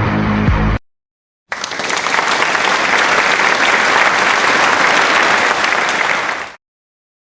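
Applause, a steady clapping crowd, lasting about five seconds and starting and stopping abruptly. A snippet of music cuts off just before it, within the first second.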